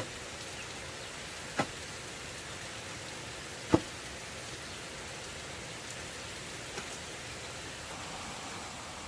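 Steady hiss like rain, with sharp knocks about one and a half seconds and nearly four seconds in, and a fainter one near seven seconds.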